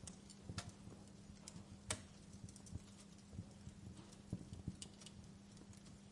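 Wood fire crackling in a fireplace: irregular sharp pops and snaps, the loudest about two seconds in, over a faint steady low hum.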